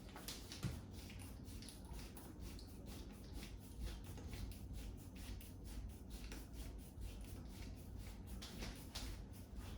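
Quiet handling noises during DIY work: a run of light scraping and rubbing strokes, with one sharp click about half a second in.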